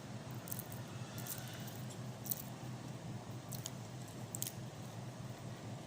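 Faint chewing of a large mouthful of instant noodles, with about five soft, sharp clicks spread through it, over a steady low hum.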